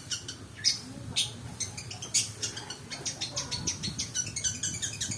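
Long-tailed shrike (pentet) singing a rapid chattering song of short, sharp high notes, packed with mimicked calls of other birds; the notes come faster and denser from about halfway through.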